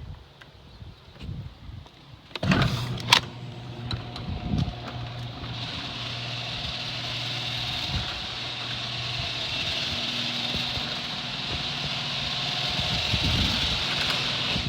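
Electric garage door opener switching on with a couple of clicks about two and a half seconds in, then running steadily with a motor hum and the noise of the door travelling. It grows a little louder and stops at the end.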